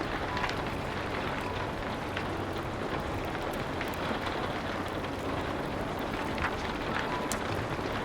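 Rain falling steadily, with scattered sharp crackles of a wood fire and a steady low rumble underneath.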